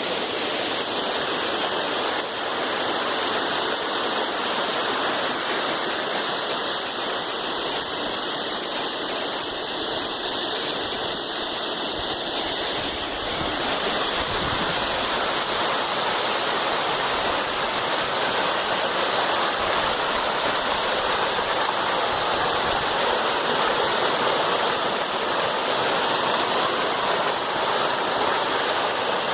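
Waterfall: a wide curtain of water falling and splashing, a loud steady rush with no pauses.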